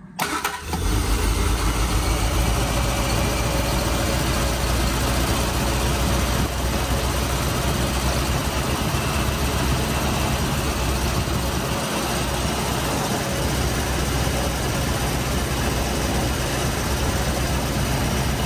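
Triumph Spitfire Mk3's four-cylinder engine starting up within the first second, then idling steadily.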